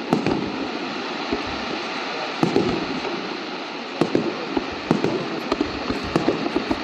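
Fireworks going off: a steady crackle of many small pops with louder bangs every second or so.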